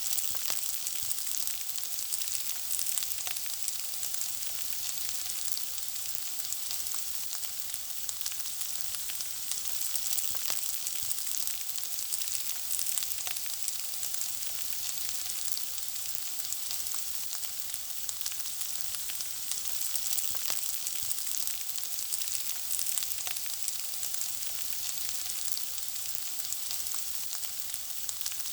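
Food frying in hot oil: a steady sizzle with scattered small crackles and pops throughout.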